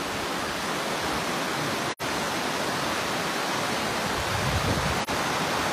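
Rain-swollen river in flood, rushing water making a steady, even hiss. The sound drops out for an instant about two seconds in and again near the end.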